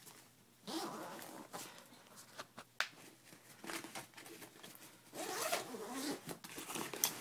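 Zipper of a soft rifle case pulled open in several short, uneven strokes, with a couple of sharp clicks, as the AR-15 is unpacked one-handed.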